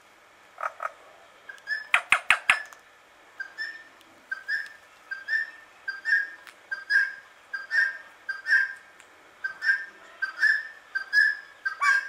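A bird calling: a quick burst of about four sharp calls about two seconds in, then a steady series of short chirps, one or two a second.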